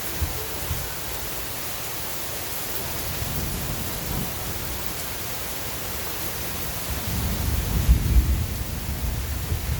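Steady hiss of rain. A low rumbling swell about seven to nine seconds in, and a brief low thump just after the start.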